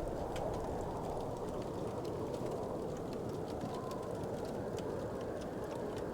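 Wood fire burning in a fireplace: a steady low rushing noise with many small, faint crackles scattered through it.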